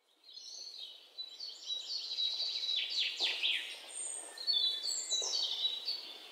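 Birds chirping and singing: a stream of quick high-pitched calls with a few fast downward-sweeping notes.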